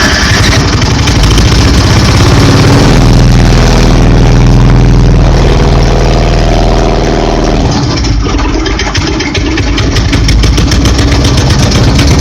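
Briggs & Stratton 5 horsepower single-cylinder engine of a mini monster truck running just after starting, set to a high idle. Its level dips briefly about eight seconds in, then it carries on steadily.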